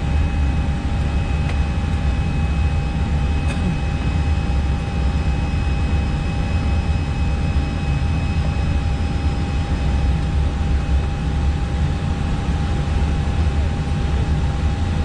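Steady cockpit noise of an Airbus airliner climbing out after takeoff: a dense, even rush of engine and airflow noise, heaviest in the low end, with thin steady whines from the cockpit equipment over it. There is a faint click about three and a half seconds in.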